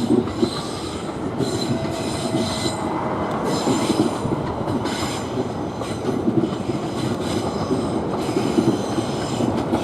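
Southeastern Class 375 electric multiple unit rolling past on the approach into a terminus: steady wheel-on-rail running noise with thin, high wheel squeal over it.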